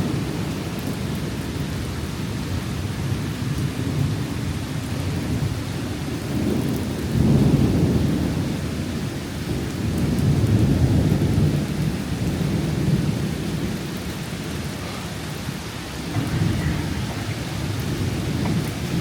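Thunderstorm: steady heavy rain with rolling thunder rumbling underneath, swelling louder about a third and half of the way through.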